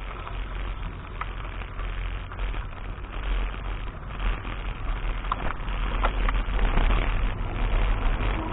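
Mountain bike riding a dirt track: wind rumble on the action camera's microphone over steady tyre and trail noise, with scattered clicks and rattles from the bike.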